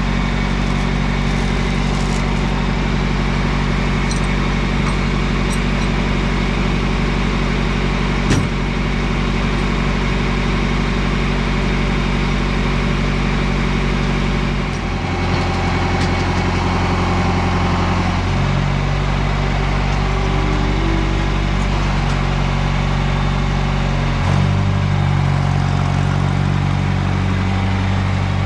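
John Deere 2510 tractor engine running steadily. Its engine speed changes in steps about halfway through, again a few seconds later and once more near the end. A single sharp knock comes about eight seconds in.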